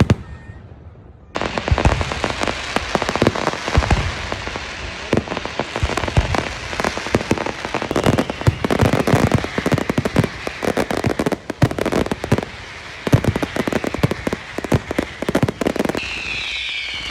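Fireworks display crackling and banging. After a brief lull, a dense barrage of sharp bangs and continuous crackling starts about a second in and keeps going, easing off briefly a few seconds before the end.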